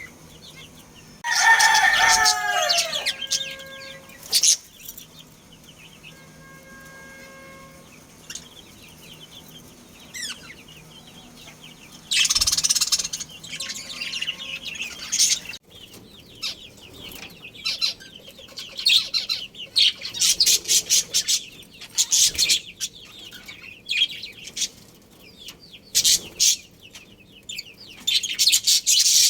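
Domestic fowl calling, with a loud, falling, crow-like call about a second in. From about halfway on there is a steady run of rapid, high chirping from small birds.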